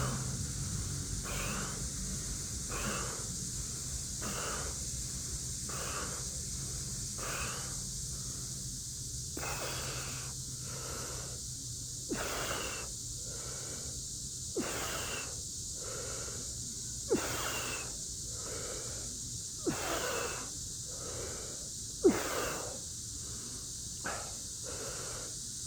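Heavy, rhythmic breathing from push-up exertion, one loud breath every second or two, over the steady high drone of a cicada chorus. From about halfway on, a short sharp sound falling in pitch comes with every second breath or so.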